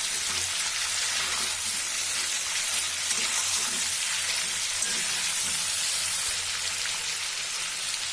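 Chicken frying in hot oil in a kadai with whole spices and cumin seeds, a steady sizzle.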